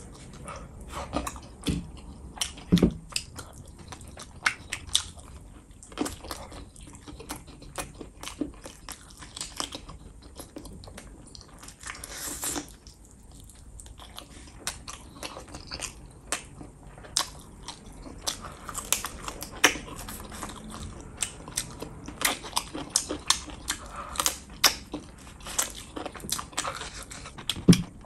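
A person chewing and smacking their lips while eating chicken gizzards, liver and rice by hand, with many short wet mouth clicks and smacks.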